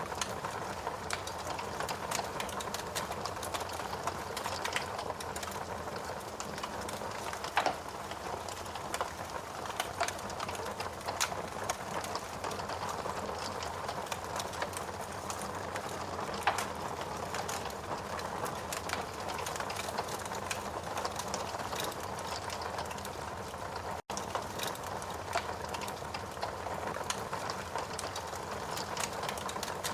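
Steady rain hiss layered with the irregular pops and crackles of a wood fire burning in a fireplace. The sound cuts out for a split second about four-fifths of the way through.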